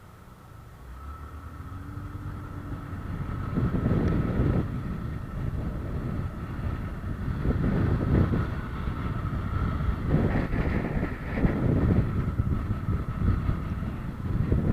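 Wind buffeting the microphone in gusts that build up over the first few seconds, over a steady thin hum.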